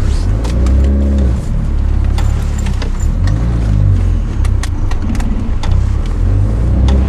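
Hyundai Genesis Coupe 2.0's turbocharged four-cylinder engine under way, its revs rising and falling twice. Scattered sharp clicks come in the second half.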